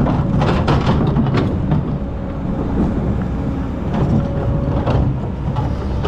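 Excavator's diesel engine running steadily, with repeated sharp clanks and scraping knocks as it digs sand.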